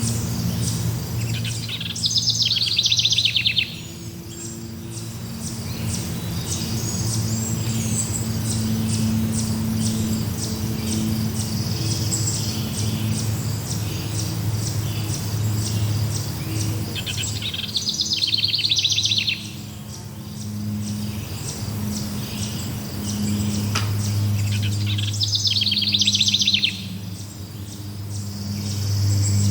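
Forest birds calling, with three loud, fast trills over a steady background of chirring crickets and a low, steady hum.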